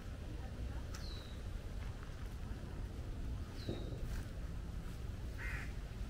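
Birds calling: two short, high chirps that drop in pitch, about a second in and again near four seconds, then a brief harsh squawk near the end, over a steady low rumble.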